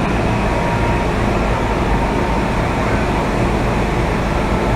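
Steady running noise inside an MTR Kwun Tong Line M-Train carriage: the rumble of wheels on rail and the train's traction equipment, with a faint steady whine.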